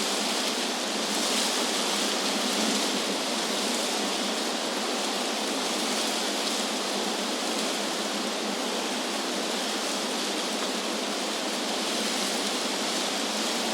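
Wind blowing through tree leaves: a steady rustling hiss that swells slightly now and then.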